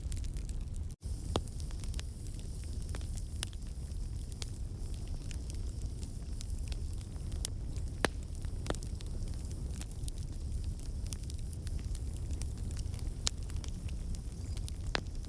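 Wood campfire burning: a steady low rumble of flames with frequent crackles and a few louder pops from the burning logs. The sound cuts out for an instant about a second in.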